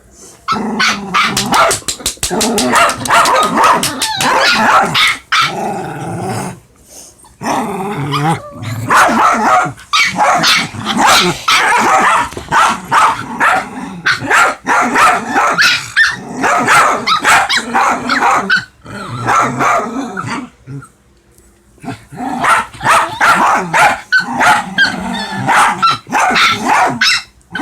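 Dogs play-fighting, barking and growling in long loud stretches with brief pauses; the fierce-sounding noise is play, not real aggression.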